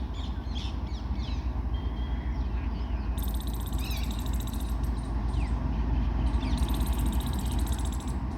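Long goods train rolling past: a steady low rumble of wagon wheels on the rails. Birds chirp over it, and a rapid high buzzing comes twice, about three seconds in and again near the end.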